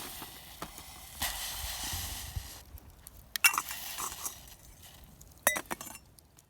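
Metal camp cookware clinking. Two sharp ringing knocks, the first about halfway through and the second near the end, come after a soft hiss lasting about a second and a half.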